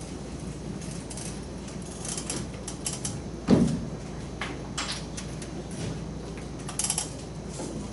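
Light taps and scratches of writing on a board, with one louder thump about three and a half seconds in, over a steady low room hum.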